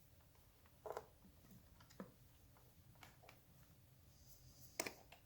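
Near silence broken by a few faint clicks and taps of small parts being handled, the clearest about a second in and near the end.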